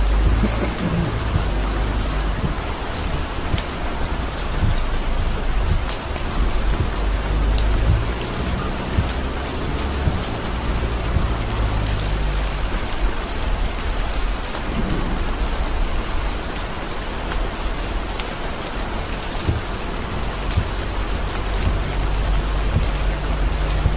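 Heavy rain drumming on a car's windshield and roof while driving, with many small drop ticks over a steady low rumble.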